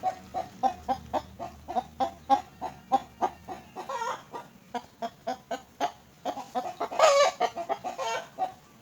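Young myna giving short calls in quick succession, about three a second, with a longer, louder call about seven seconds in: the begging calls of a chick being hand-fed.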